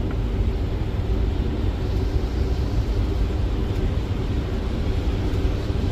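Steady rumble and hiss of airflow and engines heard inside a Boeing 737 flight deck on short final, just below decision height.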